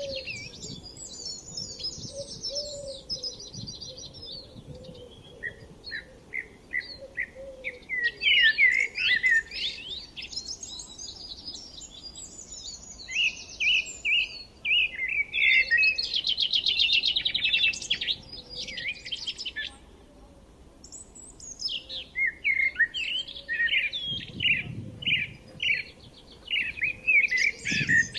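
Several songbirds singing: bursts of quick chirps and fast high trills, in bouts a few seconds long with short lulls between them.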